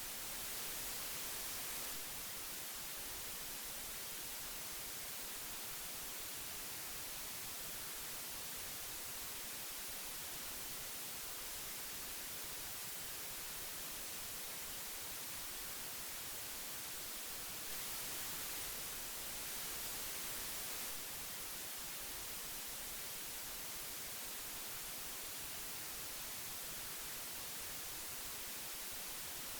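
Old tape hiss: a steady, even hiss, brightest in the treble, growing slightly louder twice for a couple of seconds, near the start and about two-thirds of the way through.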